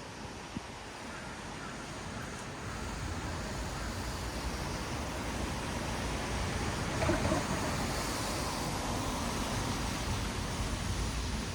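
City traffic on a rain-wet road: a steady hiss of tyres on wet asphalt, swelling gradually as vehicles draw nearer and loudest about two-thirds of the way through.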